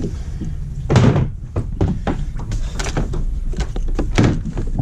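Knocks and thumps of a kayak's storage hatch and the gear inside it being handled, over a steady low rumble, with a loud thud about a second in and another near the end.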